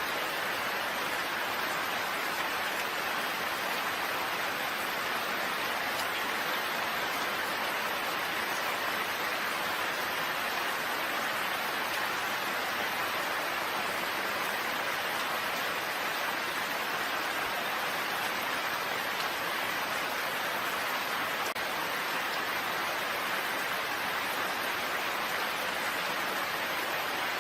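Steady rain falling, an even hiss with no separate drops or gusts standing out.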